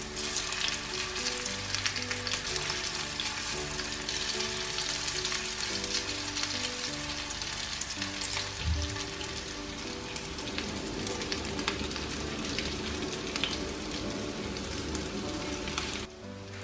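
Carrot and corn patties sizzling and crackling as they fry in shallow oil in a nonstick pan. The sizzle cuts off suddenly just before the end.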